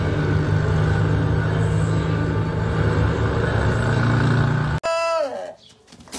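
Several motorcycle engines running together, a loud steady drone that cuts off abruptly about five seconds in, followed by a brief falling tone.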